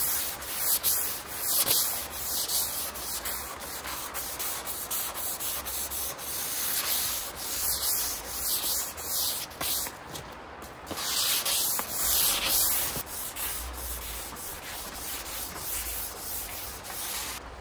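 600-grit sandpaper rubbed in quick back-and-forth strokes over a stained wood tabletop, a light sanding before colour correction.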